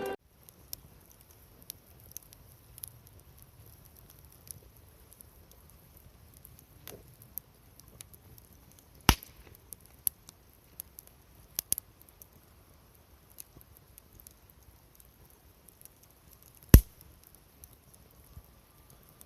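Wood fire crackling with scattered small sharp pops, and two loud sharp knocks, one about halfway through and one near the end.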